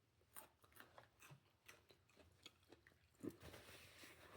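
Faint chewing: a person eating salad and wings, with soft crunchy clicks from the mouth and a slightly louder crunch a little over three seconds in.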